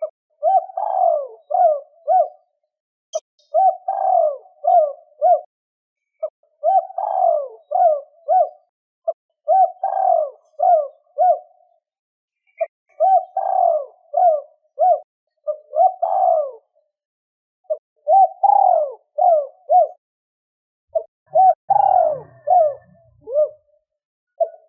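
Spotted dove cooing: phrases of four or five short, low coos, repeated every two to three seconds.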